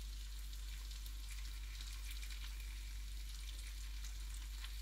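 Vegetables frying in oil in a wok: a steady, faint sizzle with scattered small crackles, over a low steady hum.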